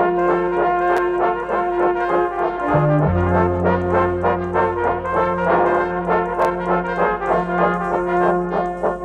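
Jazz band music led by brass, with long held notes over a steady rhythmic pulse; a deep held bass note comes in about three seconds in.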